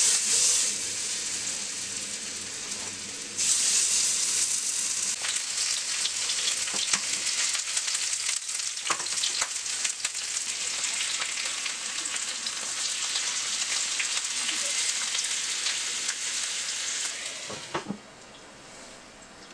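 Marinated chicken kabab skewers frying in hot oil in a non-stick frying pan: a steady sizzle that gets louder about three seconds in, with a few light knocks of the skewers against the pan. Near the end a glass lid goes on and the sizzle drops to a faint hiss.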